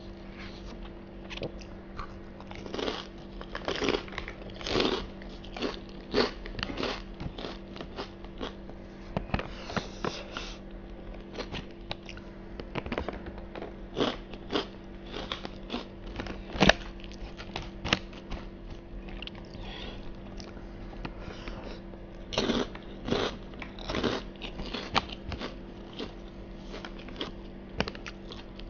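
Close-miked chewing of a mouthful of nasi padang (rice in gulai sauce), with many irregular short mouth clicks and light crunches. A steady low hum runs underneath.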